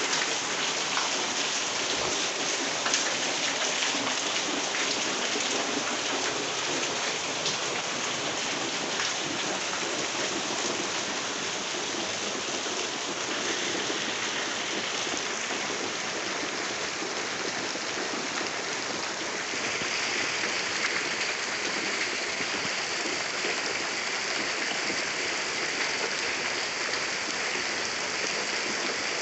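Heavy rain falling steadily on roofs, with water streaming off the eaves.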